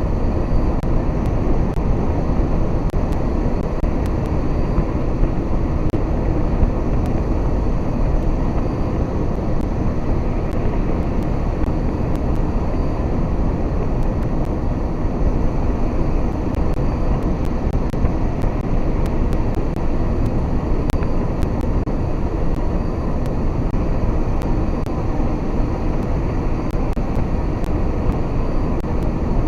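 Steady low rumble of a heavy goods vehicle on the move, engine and road noise heard from inside the cab.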